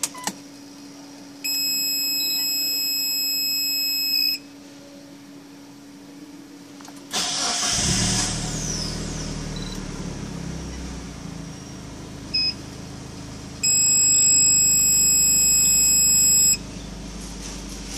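A steady electronic beep lasts about three seconds, then a Mitsubishi 4G63 turbocharged inline-four engine starts about seven seconds in and settles into a steady idle. While it idles there is a short beep and then another steady beep of about three seconds.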